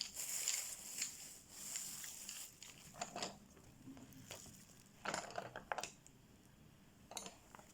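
Coloring strokes scratching across paper for the first two seconds or so, then a few light clicks and taps, spaced a second or two apart.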